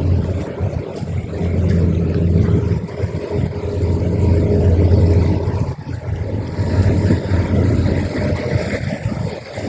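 Twin outboard motors of a fast patrol boat running under way: a steady low drone over a rushing noise, dipping briefly about six seconds in.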